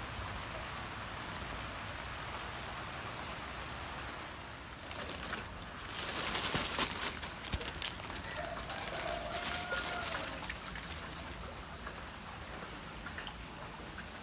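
Rain falling steadily on floodwater, an even hiss. From about six seconds in, several seconds of irregular splashing as someone wades through the flooded walkway.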